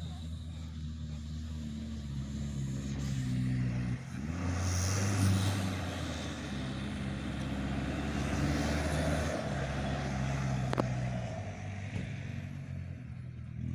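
A small motorbike engine runs steadily while being ridden along a rough forest track. Its pitch shifts with the throttle about four seconds in and again after nine seconds, with rumbling noise from the ride in between. There is one sharp click near the end.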